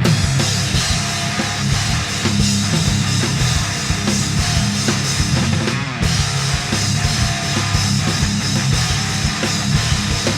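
Loud progressive hard rock band recording: distorted electric guitars over a drum kit, playing without a break.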